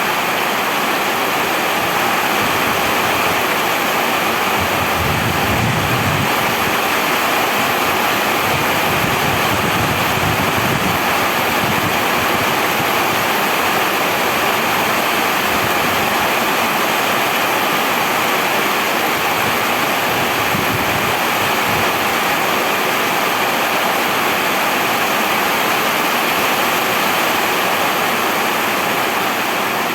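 Steady heavy rain falling, an even unbroken hiss, with a low rumble between about five and eleven seconds in.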